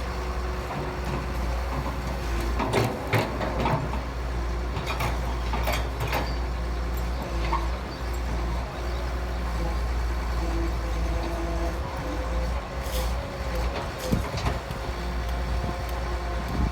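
Heavy diesel construction machinery running steadily, with a low rumble and a steady hum, and several short knocks or clanks scattered through it.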